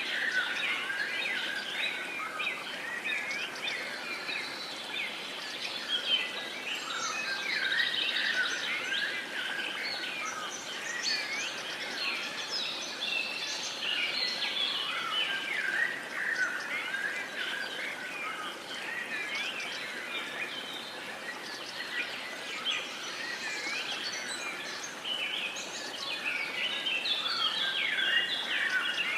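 Many birds singing and chirping at once, a dense chorus of short whistled notes over a steady background hiss.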